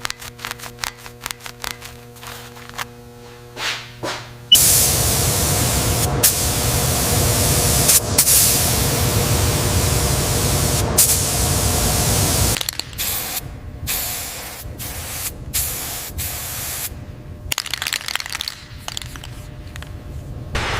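Rapid clicking over a steady hum, then about four seconds in a loud, steady spray of compressed air that runs for about eight seconds, followed by shorter on-off bursts of spraying.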